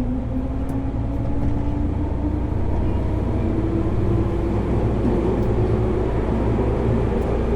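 Running sound inside a JR 205-series EMU motor car: its MT61 externally fanned traction motors hum in a tone that rises steadily as the train gathers speed, over a steady low rumble of the running gear.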